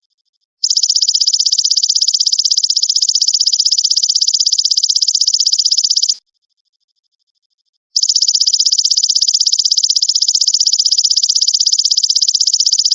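Belalang emas (golden grasshopper) calling in a loud, high, rapidly pulsed trill, in two long phrases of about five seconds each with a short pause between.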